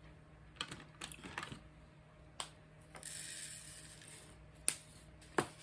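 A few scattered light clicks and taps, with a brief soft rustle about three seconds in.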